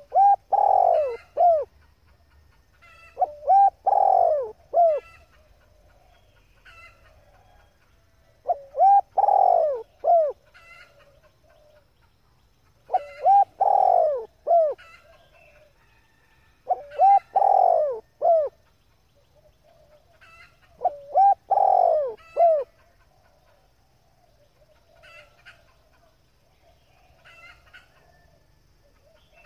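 Female spotted dove cooing: six repeated phrases about four seconds apart, each a short note, a long arched coo and a short closing note. Fainter high chirps from smaller birds come between the phrases and run on after the last one.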